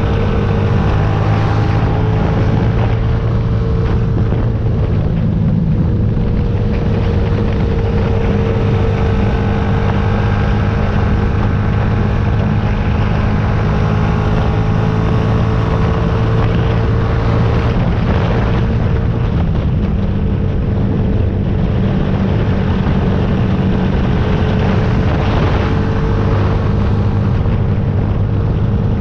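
Yamaha YZF-R125's single-cylinder four-stroke engine running at a steady cruise, its pitch holding nearly constant with only slight changes, under wind rush.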